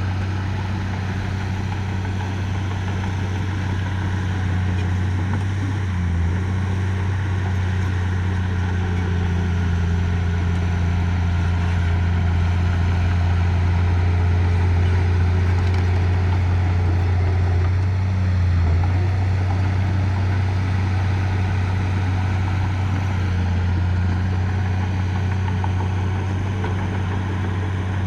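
Diesel engine of construction machinery running steadily with a low drone, dipping briefly in pitch twice, about six seconds in and again near the middle.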